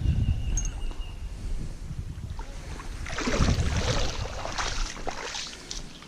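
Water splashing, loudest about three to four seconds in, with wind rumbling on the microphone at the start.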